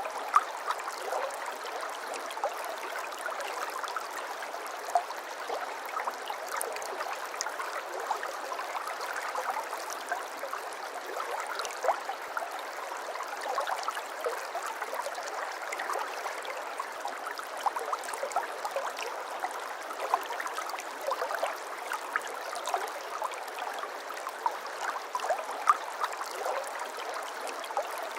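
Shallow water flowing and trickling steadily, with many small splashes and gurgles throughout.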